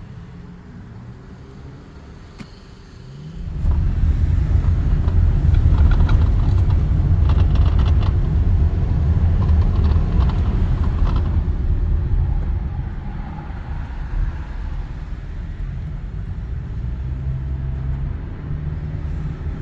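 Car driving: a low road and engine rumble that jumps up sharply about three and a half seconds in, then eases back to a steadier, lower rumble after about twelve seconds.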